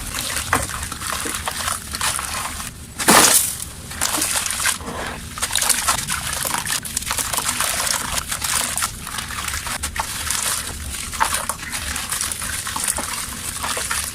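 Chunks of dry, dusty mud being crumbled and crushed: a dense run of small crackles and snaps, with one louder crunch about three seconds in.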